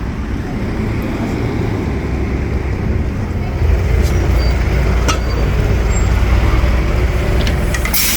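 Optare Solo single-decker bus drawing in, its diesel engine running with a steady low drone that grows louder about three and a half seconds in. A short burst of air hiss comes near the end.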